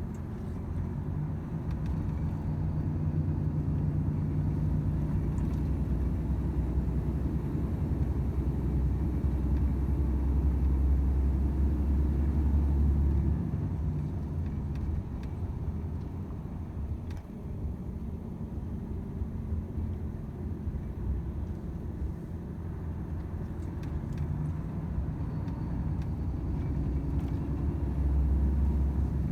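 Volvo FH 500 truck's 13-litre straight-six diesel running under way, a low drone that builds over the first dozen seconds, eases off about halfway through, and picks up again near the end.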